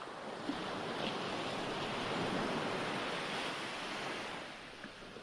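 Recorded ocean waves breaking and washing on a shore: a single wave surge swells up, peaks about halfway through and recedes.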